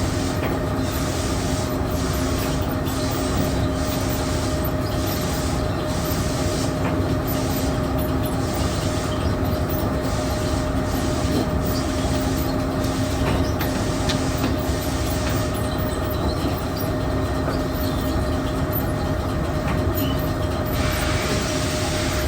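Feed mill machinery running loudly and steadily: a constant hum with two steady tones and a faint squeal, under a rhythmic swishing pulse about every two-thirds of a second. The high swishing changes character in the last few seconds.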